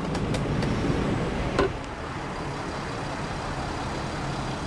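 Mercedes Sprinter's 3-liter six-cylinder diesel engine idling with a steady low hum. A few sharp clicks near the start and a knock about a second and a half in.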